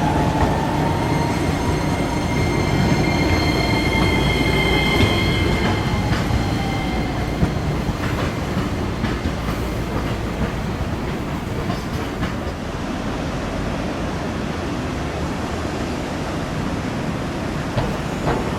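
Hiroden streetcar running on street track: a motor whine that rises a little and then sinks in pitch, a high steady wheel squeal for a few seconds, and clicks from the wheels over the rails.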